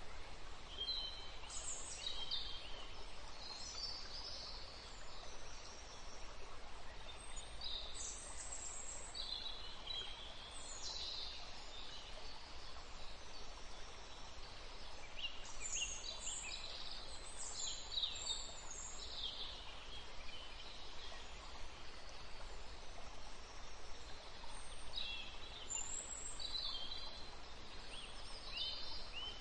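Small birds chirping in scattered clusters of short, high, quickly gliding calls, most busily in the middle and again near the end, over a steady low hum.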